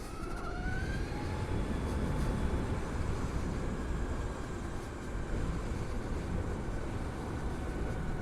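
Wind rushing over a chin-mounted helmet camera on a moving Harley-Davidson LiveWire electric motorcycle, with the electric motor's faint whine rising in pitch during the first second and then holding steady.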